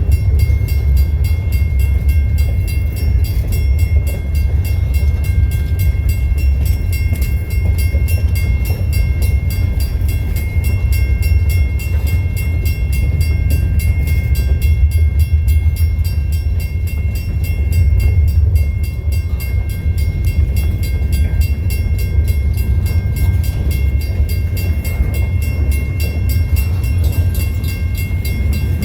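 Train rolling past: a steady, heavy low rumble with a few faint, steady high-pitched whines over it.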